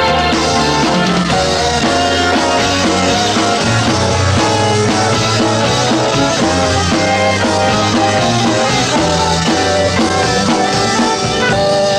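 Live progressive rock band playing an instrumental passage of a song.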